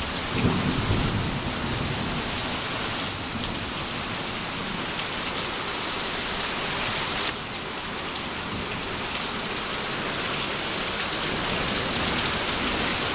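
Heavy thunderstorm rain falling steadily, a dense even hiss of downpour.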